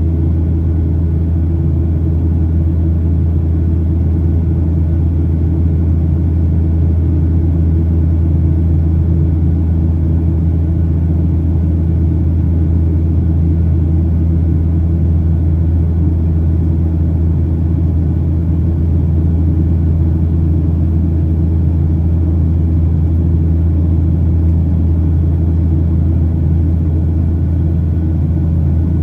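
Steady low drone of a Boeing 737-800's CFM56-7B jet engines and airflow heard inside the passenger cabin in flight, with a deep hum that does not change.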